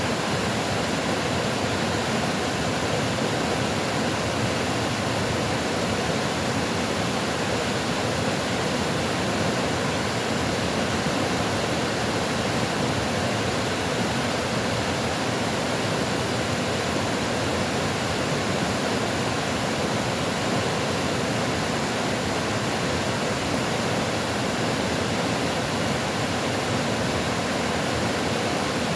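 Flowing water rushing in a steady, even stream of noise with no separate splashes or changes.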